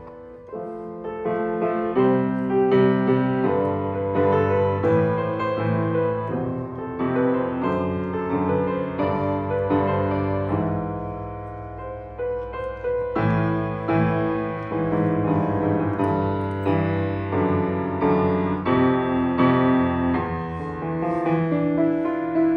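Solo piano playing a piece of chords and melody over held low bass notes.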